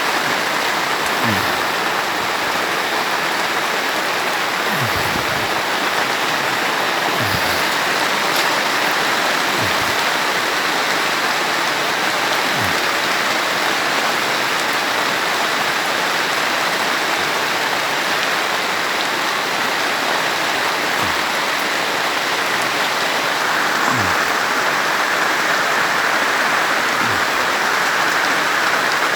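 Steady hiss of heavy rain falling, with a handful of short low tones that slide downward scattered through it.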